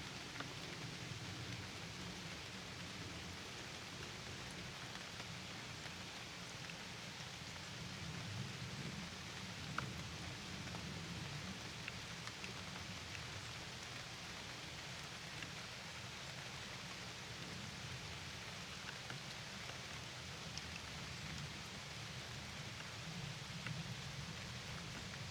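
Steady rain falling on a lake, with a few nearer drops ticking now and then and a low rumble underneath.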